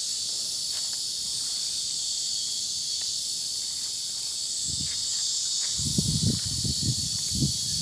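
Summer cicada chorus droning steadily and high-pitched. From about five seconds in, irregular low rumbling thumps join it.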